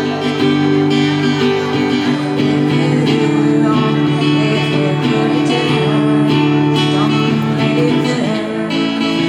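Acoustic guitar strummed, playing chords steadily without singing.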